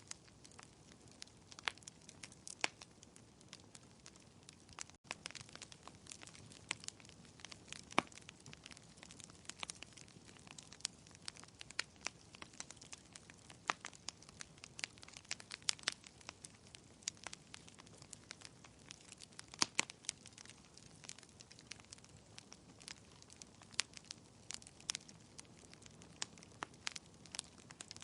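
Wood fire crackling in a fireplace: a steady scatter of irregular sharp pops and snaps over a soft hiss. The sound cuts out for an instant about five seconds in.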